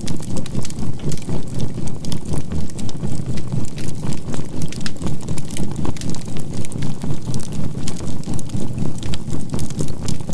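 Crackling campfire of burning charcoal, its sharp little pops scattered throughout, over a low hum that pulses evenly about three times a second, the binaural beat, and a faint steady 528 Hz tone.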